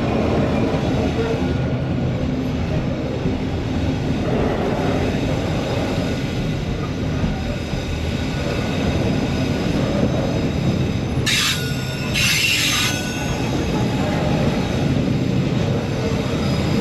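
Freight train wagons rolling past in a steady rumble, with two brief high-pitched squeals of steel wheels on the rail about two-thirds of the way through. The train sounds mostly empty, with no refrigeration motors running on the wagons.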